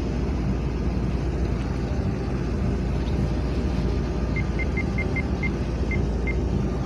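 Steady low rumble of a 70-metre ship's engine and machinery as it manoeuvres to turn, with a run of eight short high beeps about four seconds in.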